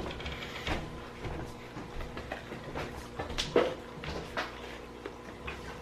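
Scattered clicks, taps and knocks of food and takeout packaging being handled while eating, with one sharper knock about three and a half seconds in.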